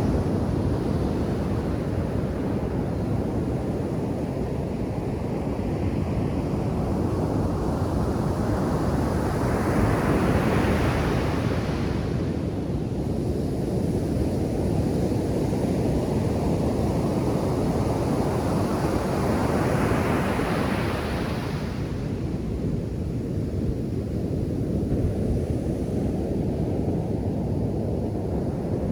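Ocean surf on a sandy beach: a constant low rush of breaking waves, with two larger waves building and crashing, about ten seconds apart.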